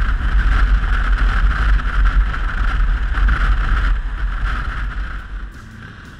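Riding noise from a Yamaha XT660Z Ténéré motorcycle under way: a steady rush of wind over the microphone with a deep rumble underneath. It fades down from about five seconds in.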